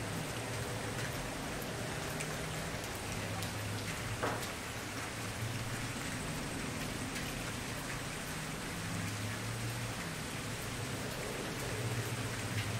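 Wood campfire burning: a steady hiss with scattered small crackles and pops, one sharper pop about four seconds in, over an uneven low flame rumble.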